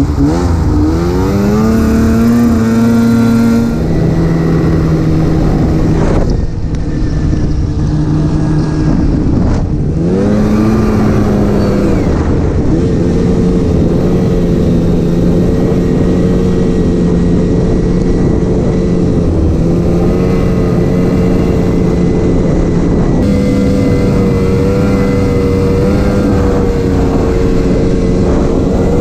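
Snowmobile engine running at speed. It revs up sharply just after the start and again about ten seconds in, each time settling to a steady pitch, over a constant rush of noise.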